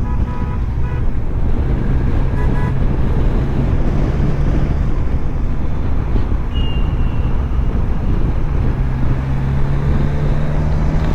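Vehicle driving on a highway: steady engine drone and road noise, with two short horn toots from traffic in the first three seconds.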